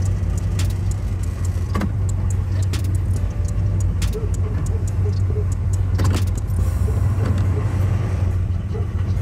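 Box Chevy Caprice engine running as the car creeps along at low speed, heard from inside the cabin as a steady low hum. Scattered light clicks and rattles sound throughout.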